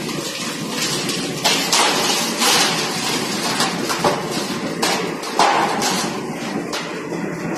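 Plate rolling machine working steel plate: a steady running noise, with several louder bursts of grating noise through the middle.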